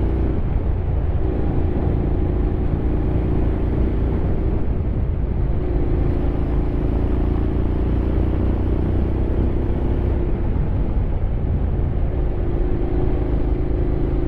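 Honda X-ADV 750's parallel-twin engine running under a rider at an easy, steady cruise, with a constant low rumble. Its steady engine note drops away briefly about three times, around the first, fifth and eleventh seconds.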